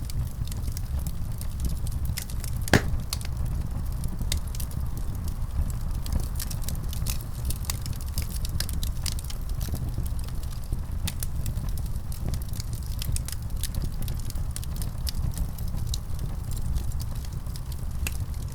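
Wood fire crackling in a fireplace: a steady low rumble with frequent sharp crackles and snaps, and one louder pop about three seconds in.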